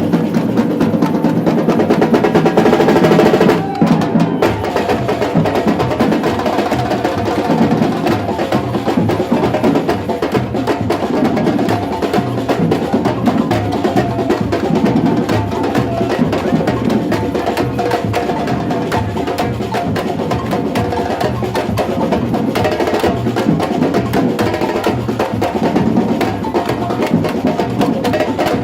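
Batucada samba percussion group playing dense, driving drum rhythms, with a short break in the drumming about three and a half seconds in.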